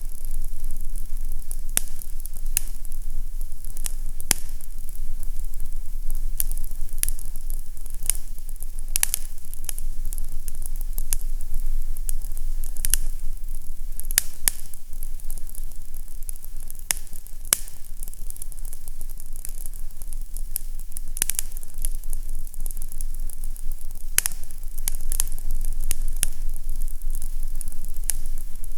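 Fireplace fire crackling: irregular sharp pops and snaps over a steady hiss, with a low steady rumble underneath.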